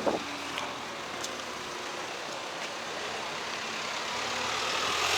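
A vehicle engine idling steadily amid outdoor traffic noise, growing slightly louder toward the end, with a brief falling sound right at the start.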